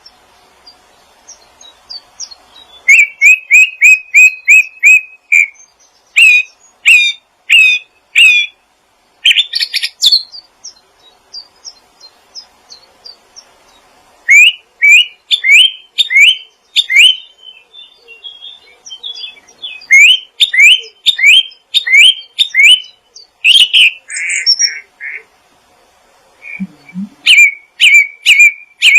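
Songbird singing in loud runs of short, quickly repeated rising chirps, about three notes a second. Several phrases come with short pauses between them.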